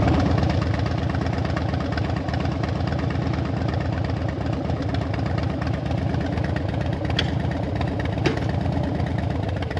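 Harley-Davidson Dyna's V-twin engine idling steadily, with an even pulsing rumble.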